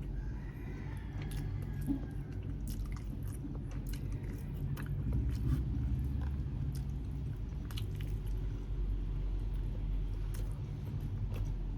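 A person chewing and biting food close to the microphone, with many sharp, wet mouth clicks over a steady low hum.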